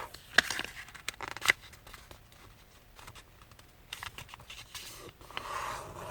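A thin sheet of paper being folded and creased by hand: a few sharp crinkles and taps, then a longer rustle of the paper sliding near the end.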